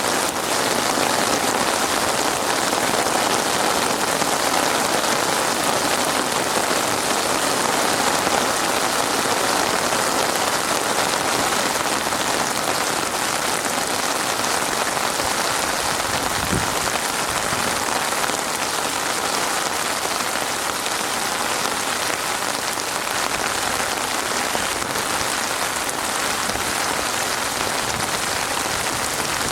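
Heavy rain falling steadily, an even hiss of dense raindrops on surfaces. A single short low thump sounds about halfway through.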